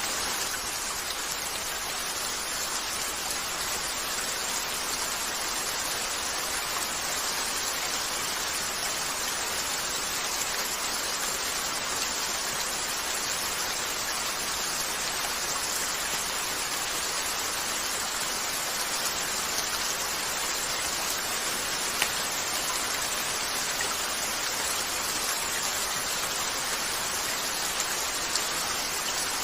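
Steady rain falling on a window, an even hiss with an occasional faint click.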